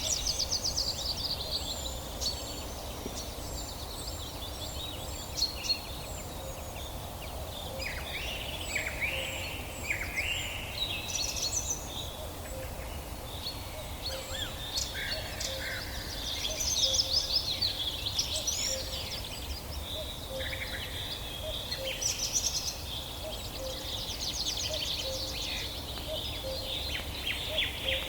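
Several songbirds chirping and trilling, their calls overlapping in quick phrases and rapid trills over a steady background hiss.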